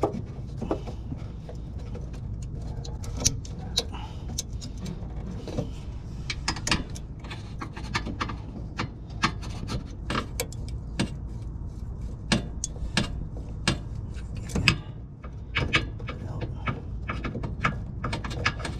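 Irregular clicks and light knocks of hand tools and parts being worked under a car, over a steady low hum.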